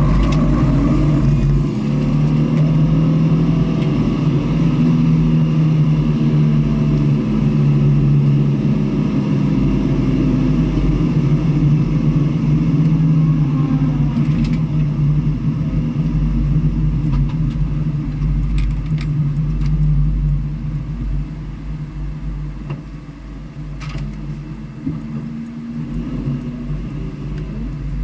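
Onboard sound of a vehicle's engine running hard around a race circuit, with a heavy low rumble. It eases off about twenty seconds in.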